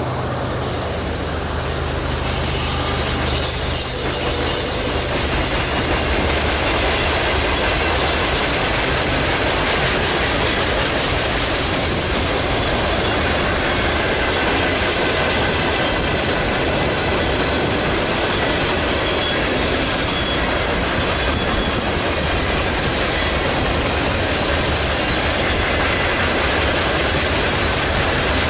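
Freight train rolling past. The low hum of the trailing diesel locomotives, BNSF GP60M-3 units, fades over the first few seconds. Then a long string of freight cars goes by with a steady rumble of steel wheels on rail, clickety-clack over the rail joints and faint wheel squeal.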